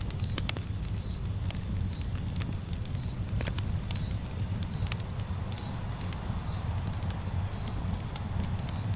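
Campfire crackling with irregular sharp pops over a steady low rumble of the flames. A short high chirp repeats about once a second.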